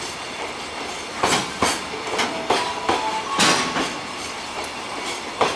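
Container flat wagons of a passing freight train, their wheels clacking over the rail joints, often in quick pairs, with a few short squealing tones partway through.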